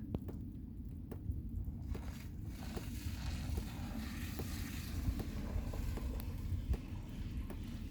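Blizzard wind with a steady low rumble and scattered light ticks, swelling into a broad hiss about two seconds in that peaks midway and fades near the end.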